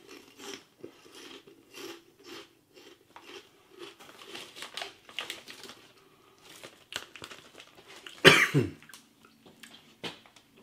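Chewing of crunchy pork rinds (chicharon), a run of small, crackly crunches, then one loud cough a little past eight seconds in as the spicy vinegar seasoning catches the throat.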